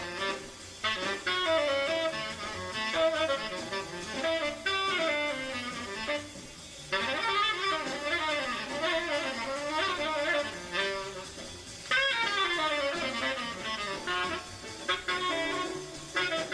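Jazz recording of a tenor saxophone playing fast bebop runs in long phrases, pausing briefly between them.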